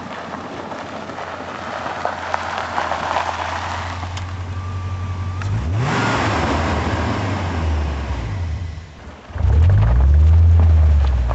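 BMW E38 730i's V8 running through an aftermarket HH Spezial exhaust and being revved: a deep exhaust note rises about six seconds in, dips briefly near nine seconds, then climbs again to its loudest.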